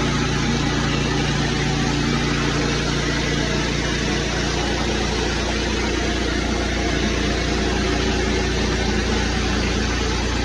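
Pressure washer's gas engine running steadily, with an even hiss over it.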